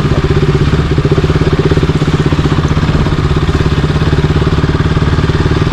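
Single-cylinder motorcycle engine running at steady revs with a fast, even pulsing, close to the microphone.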